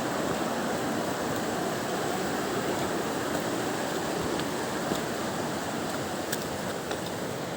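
Fast mountain river, the Katun, rushing over rocks with a steady, even roar of water.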